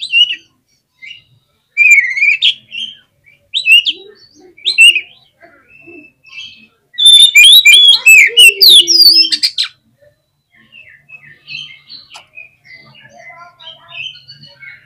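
Oriental magpie-robin singing in short whistled and scratchy phrases, with a loud, rapid run of notes about seven seconds in, then softer chattering near the end.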